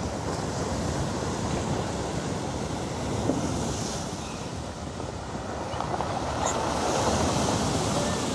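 Storm surf breaking on a stone beach: a steady wash of waves that swells louder about six seconds in, with some wind on the microphone.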